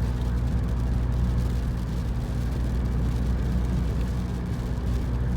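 Steady engine and road drone of a car on the move, heard from inside the cabin.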